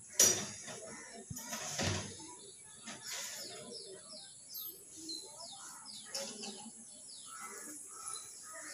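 Small birds chirping, with a run of quick falling chirps in the middle, over faint distant voices. A sharp knock just after the start is the loudest sound.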